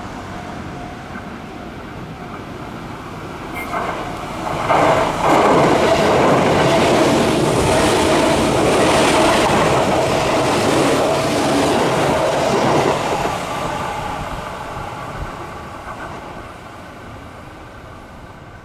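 Tobu 8000-series electric commuter train passing close by. The noise of its wheels and motors swells about four seconds in, stays loud for about eight seconds, then fades away.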